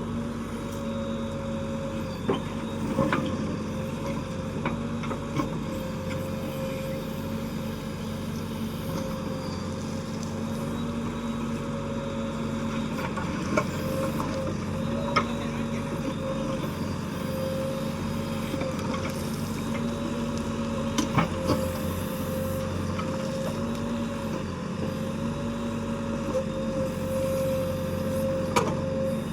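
JCB 3DX backhoe loader's diesel engine running steadily under work, with sharp knocks now and then from the machine at work.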